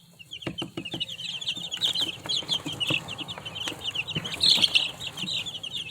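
A brood of young chickens peeping: many short, high chirps overlapping without a break, with scattered soft knocks and rustles among them.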